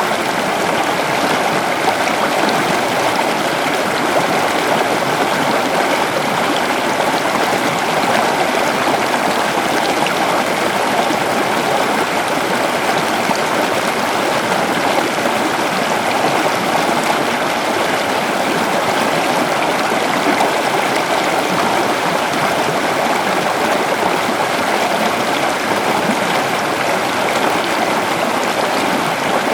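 A shallow river flowing and babbling over rocks: steady rushing water.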